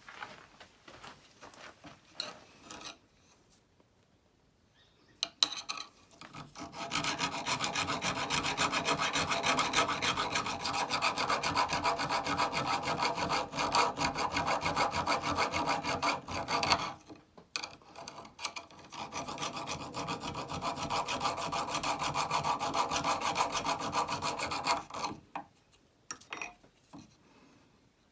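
Abrasive scrubbing on a rusty old steel chisel, as in rust removal: two long spells of rapid back-and-forth rubbing with a short pause between them, and a few light handling knocks before and after.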